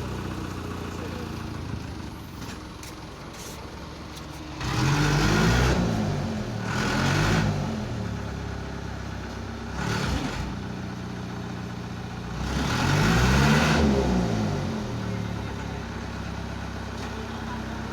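Heavy truck engine idling and revved up four times, its pitch rising and falling with each rev; the longest rev comes near the end. The truck has sunk into soft ground and is straining to drive out.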